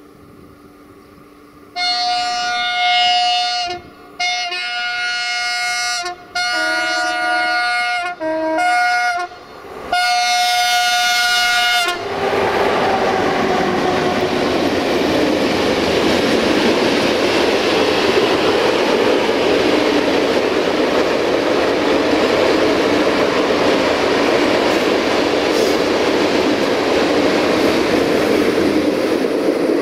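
Electric locomotive's horn sounds five blasts over about ten seconds, two of them at a lower tone. Then the freight train passes close by, its wheels on the rails making a steady loud rattle.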